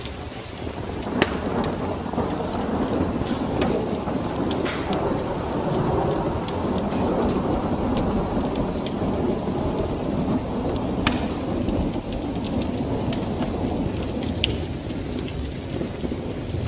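Wood fire crackling with scattered sharp pops, under a low rolling rumble of thunder that swells about a second in and fades out near the end.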